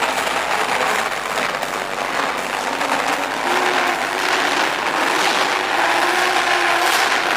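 Two drift cars running in a tandem drift, their engines revving with a steady wash of engine and tyre noise.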